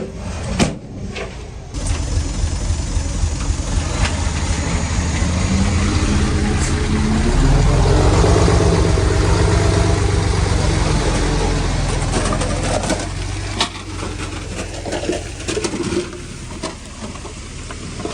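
Diesel engine of heavy earthmoving equipment running and revving under load. It grows louder and higher from about six seconds in, holds through the middle, then eases off after about twelve seconds, with a few sharp knocks along the way.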